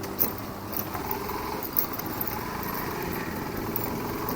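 Motorcycle engine running steadily, with a few light clicks.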